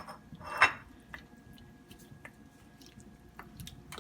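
Potato pieces and seasoning being added to a pot of curry chicken in coconut-milk sauce: one wet, squishy plop about half a second in, then a few faint light clicks.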